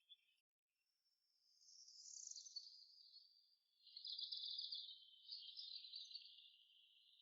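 Near silence with faint, high-pitched insect chirring that swells about a second in and holds steady.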